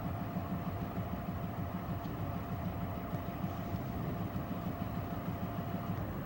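Diesel locomotive engine running steadily at a low rumble, with a thin steady whine that stops near the end.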